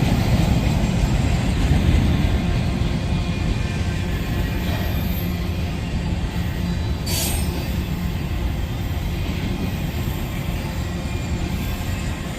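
Train rolling past with a steady low rumble of wheels on rail that slowly eases off, and one short high wheel squeal about seven seconds in.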